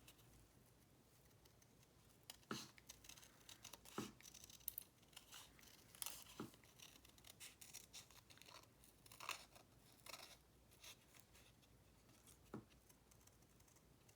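Scissors cutting through paper, a faint, irregular run of short snips with a little paper rustling.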